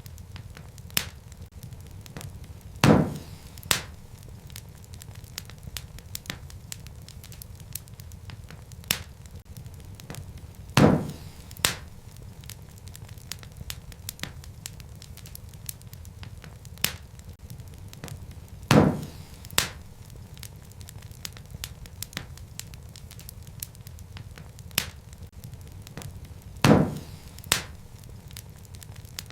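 Wood fire crackling in a fireplace: a steady low rumble with many small crackles. Louder pops come about every eight seconds, each followed by a second pop a moment later.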